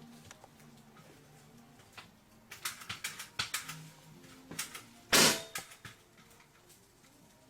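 Stage special-effects cannon firing: a quick run of sharp clicks and crackles, then a single short, loud hissing blast lasting about half a second.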